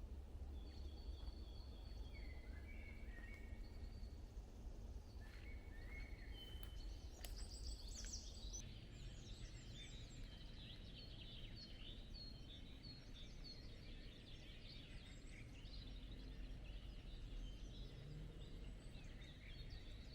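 Woodland birds singing and calling over a low steady rumble. The calls are sparse at first and turn into a busy chorus of short whistles and chirps about eight seconds in.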